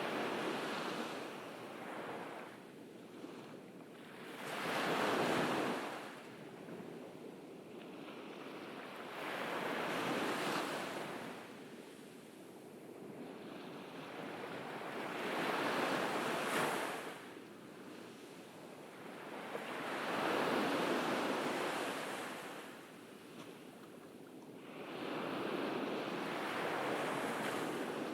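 Ocean waves breaking on a beach, each wash swelling and fading about every five seconds, with some wind on the microphone.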